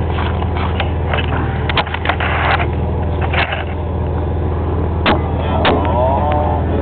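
1999 Dodge Dakota's 3.9-litre Magnum V6 idling steadily just after a cold start in sub-zero cold, with scattered clicks and a brief squeak near the end.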